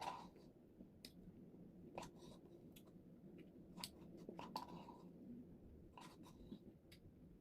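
Faint close-up eating sounds: soft mouth clicks and chewing of ice cream, scattered irregularly.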